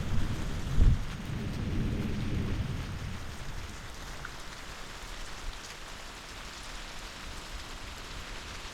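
Heavy summer rain falling steadily, with a thunder rumble that peaks in one loud clap about a second in and fades away after about three seconds.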